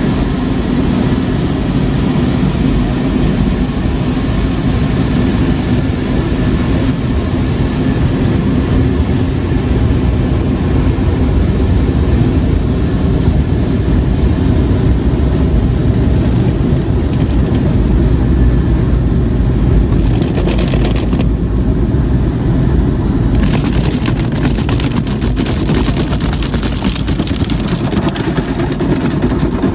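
Automatic car wash machinery heard from inside the car going through it: a steady low rumble and rushing noise. About twenty seconds in, a dense rapid patter joins over it, breaks off briefly and comes back.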